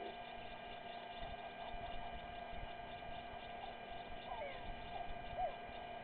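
Steady electrical hum with several fixed tones, with a few faint, short chirping calls over it.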